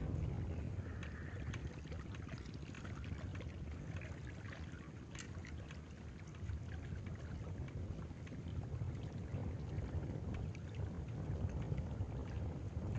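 Wind rumbling on the microphone at the water's edge, with water lapping and scattered small clicks.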